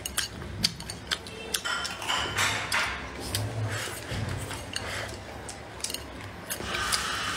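Close-miked eating sounds of a person chewing braised pork: wet mouth smacks and chewing, with many short sharp clicks throughout.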